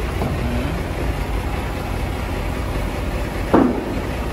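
Low, steady rumble of a Mercedes-Benz G 500's V8 engine as the SUV creeps slowly out of a shipping container, with one short, sharp sound about three and a half seconds in.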